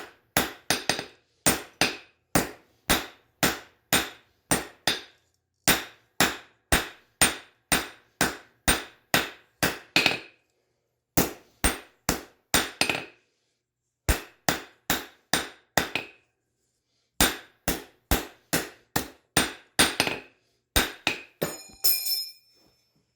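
Hammer striking a hot railroad spike on an anvil while drawing it out: a steady run of sharp blows, about two to three a second, broken by a couple of short pauses. Near the end come a few lighter, ringing metallic clinks.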